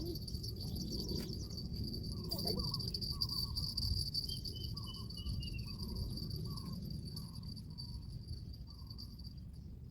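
Insects droning steadily on one high note, over a low rumble of wind on the microphone. Small chirps come through the drone, with a short falling run of chirps near the middle.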